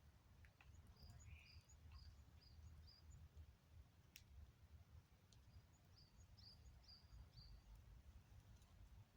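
Faint bird calls: a quick run of about five short high notes, repeated about five seconds later, over a low steady rumble of distant background noise.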